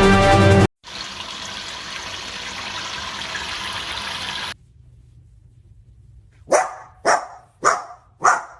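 Music cuts off, followed by about four seconds of steady rushing noise like running water. Then come four loud barks, about 0.6 s apart.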